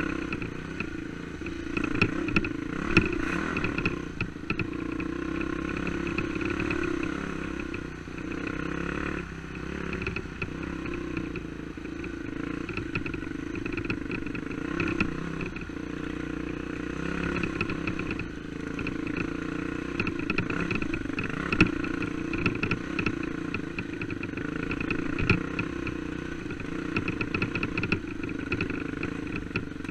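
Four-stroke single-cylinder dirt bike engine running at a steady, moderate throttle while riding a rough trail, with frequent short clattering knocks from the bike over the rocky ground.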